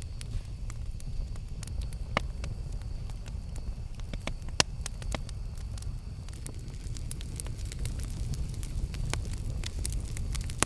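Campfire burning: a steady low rumble from the flames, with scattered sharp crackles and pops. The loudest pops come about two seconds in and just under five seconds in.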